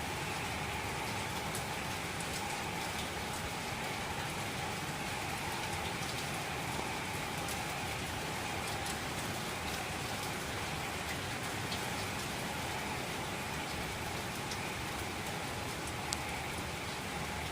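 Steady heavy rain falling, with scattered sharp drop ticks.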